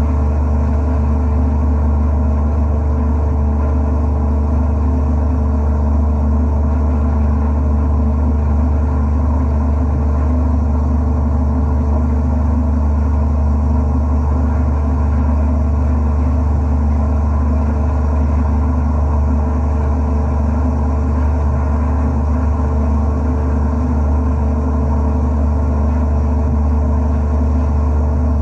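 Wet abrasive blasting (aquablasting) machine running steadily: a constant low hum with no change in pitch or level.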